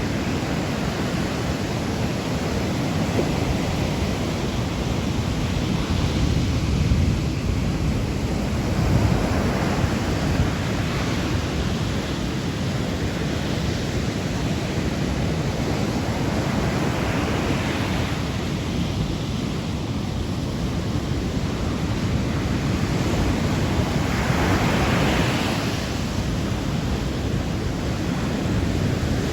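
Sea waves washing onto the shore: a steady low rumble of surf with a hissing wash that swells and fades every few seconds.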